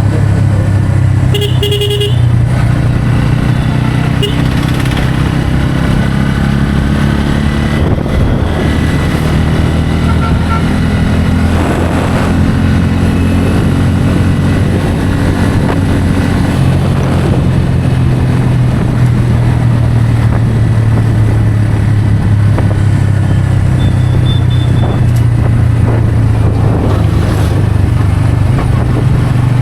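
Bajaj Pulsar N160's single-cylinder engine running steadily while riding on the highway, its note shifting about seventeen seconds in. A vehicle horn honks briefly about a second and a half in.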